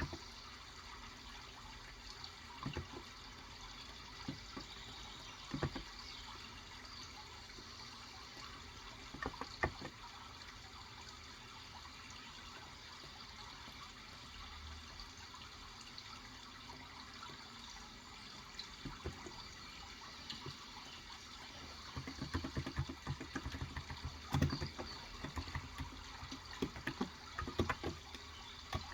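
Steady trickling water, with a few scattered keystrokes on a Cox Endeavour electrostatic capacitive 35 g tenkeyless keyboard. About three-quarters of the way in, these turn into a run of rapid typing.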